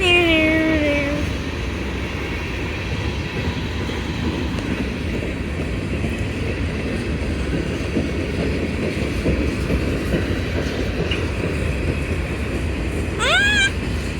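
CSX freight train rolling past, its cars giving a steady rumble with clickety-clack of wheels over the rail joints.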